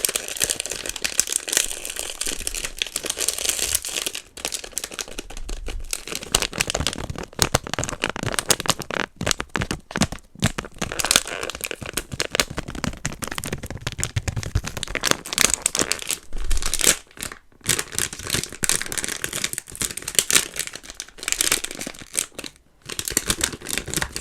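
Close-up crinkling and tearing of a Sanrio blind box's packaging as it is opened by hand to get at the figurine, a steady stream of crackles broken by a few short pauses.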